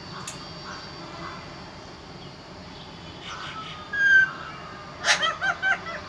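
Pet parrot vocalising: a loud pitched call about four seconds in, then a quick run of short voice-like notes near the end.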